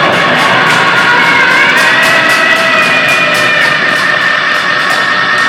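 Live noise-grind band playing a loud, dense wall of distorted amplified noise. High feedback whines bend slightly in pitch over rapid, clattering hits.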